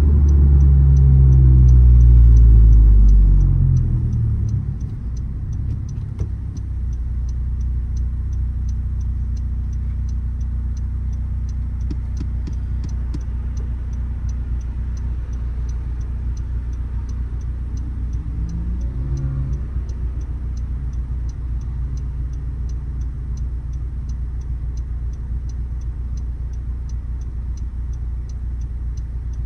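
Honda Civic Si engine, its revs falling as the car slows over the first few seconds, then idling steadily. A turn-signal indicator ticks regularly throughout.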